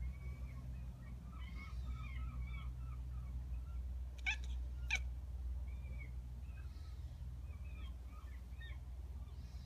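Kitten chirping and chattering in runs of short warbling trills, the hunting chatter of a cat watching seagulls. Two sharp clicks come about midway, over a steady low hum.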